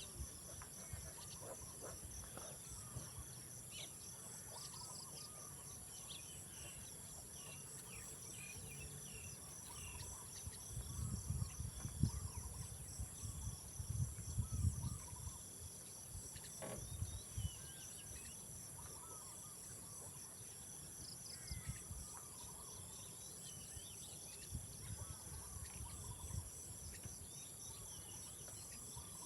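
Steady insect chorus, a continuous high drone over a pulsing trill, with scattered short chirps. A stretch of low rumbling comes and goes about a third of the way in.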